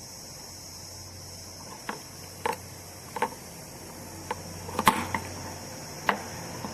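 Small hard parts clicking and tapping, several separate sharp clicks spread out irregularly with the loudest about five seconds in, as a 9-volt battery is pulled apart by hand.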